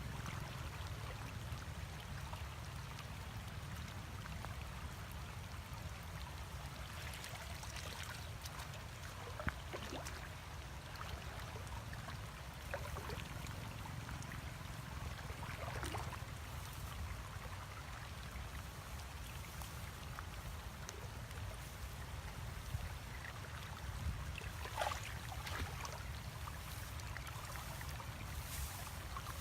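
Water trickling and splashing, with scattered small splashes, over a steady low rumble.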